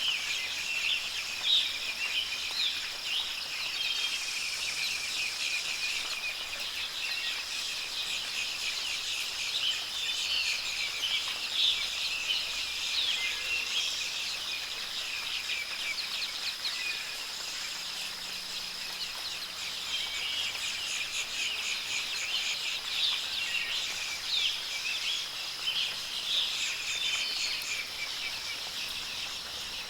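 Many songbirds chirping and singing at once, with short overlapping calls and trills, over a steady high hiss.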